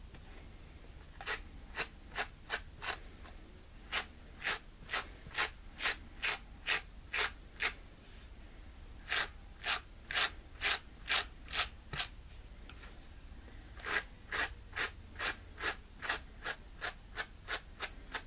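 Pet slicker brush with curved wire teeth stroked over a small knitted sweater: short scratchy strokes about two a second, in four runs with brief pauses between, pulling pills off the knit.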